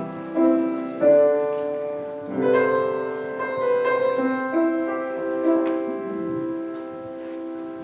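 Piano playing slow, sustained chords and a melody, notes struck every second or so and left to ring, growing softer toward the end.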